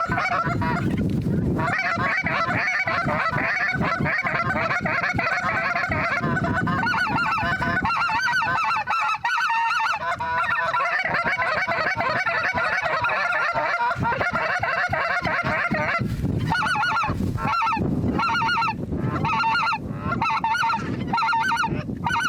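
A flock of geese honking, many calls overlapping densely; about sixteen seconds in, the calls thin out into separate, repeated honks.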